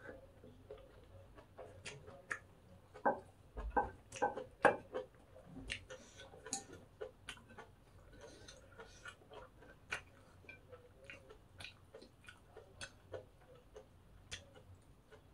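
Close-miked eating: irregular crisp clicks and crackles of crunchy pork cartilage fried rice being chewed, mixed with chopsticks tapping and scraping on a ceramic plate. The clicks come thickest and loudest about three to five seconds in.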